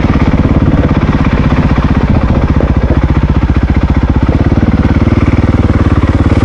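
Honda CRF450RL's single-cylinder four-stroke engine running steadily at low revs, in first gear with the clutch feathered on a slow, steep descent.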